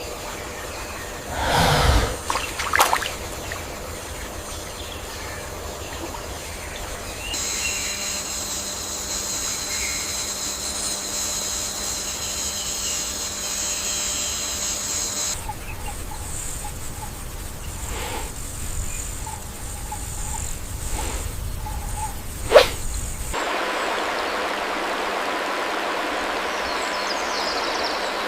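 Outdoor nature ambience that changes abruptly several times. A steady high-pitched chorus lasts about eight seconds, a single sharp click comes later, and near the end a steady rush of running water sets in.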